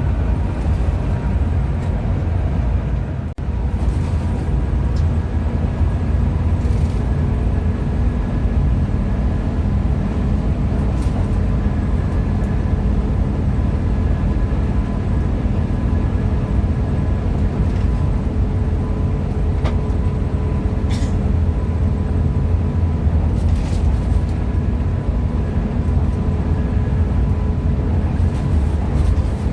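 Hino RM 280 bus under way: a steady low rumble of engine and road noise, with a few faint steady tones over it. There is a brief dip about three seconds in and a few faint clicks later on.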